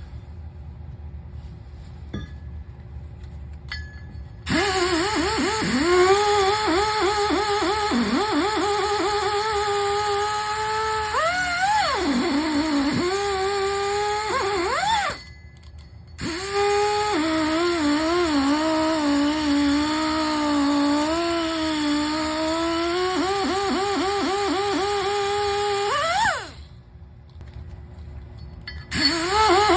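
A power tool running in three long bursts, its whine dipping in pitch again and again as it bites under load. It starts about four seconds in and stops briefly twice.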